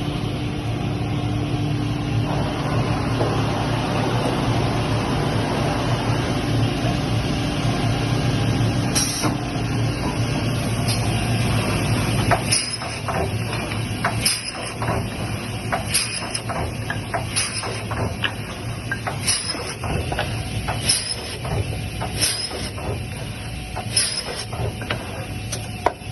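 OMGA optimizing cross-cut saw with a pneumatic pusher, running with a steady machine hum. From about halfway through, a regular cycle sets in: a knock with a short hiss of air roughly every one and a half to two seconds as the machine works through wooden bars.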